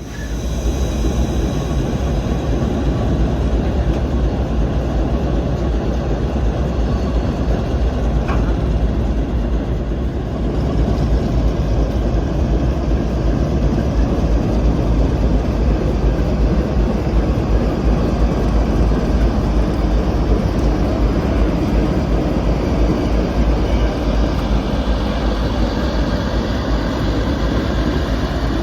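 Heritage passenger train running along the line, a steady loud rumble with no clear beat.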